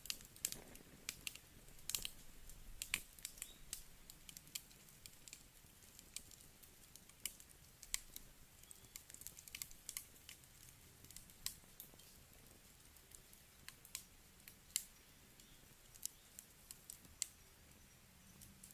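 Wood campfire crackling: irregular sharp snaps and pops of burning wood, more of them in the first few seconds.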